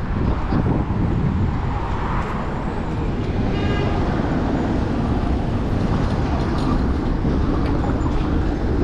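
City street traffic noise with a steady low rumble heard from a moving bicycle, and a brief high-pitched squeal about three and a half seconds in.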